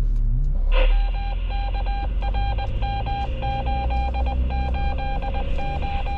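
A Jeep's electronic warning chime beeping over and over, starting about a second in, over the low rumble of the engine idling.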